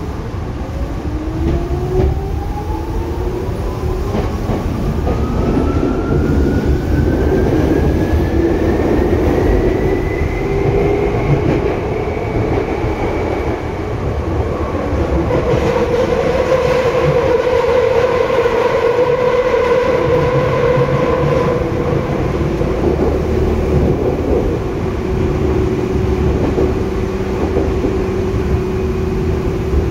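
Hitachi DC traction motors of a Tokyu 8500 series train whining, the pitch rising steadily for about twelve seconds as the train accelerates. Steady tones then hold as it cruises, over the rumble and clatter of wheels on rail.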